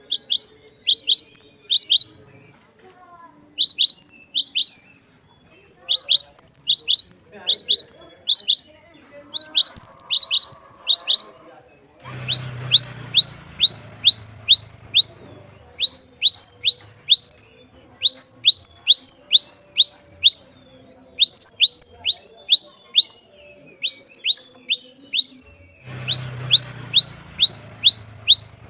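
Cinereous tit (glatik batu) singing: phrases of about two seconds of quick, high, repeated notes, each note a short falling sweep, separated by brief pauses. A faint low rumble sits under the song twice, about twelve seconds in and near the end.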